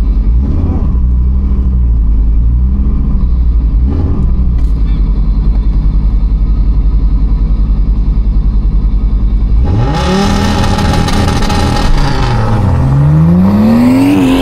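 Fiat Marea's forged, turbocharged 2.4-litre five-cylinder engine, heard from inside the cabin, holding at the line with an even pulsing beat and a few short blips. About ten seconds in it launches at full throttle: the revs climb and fall back twice as it is shifted up through the gears.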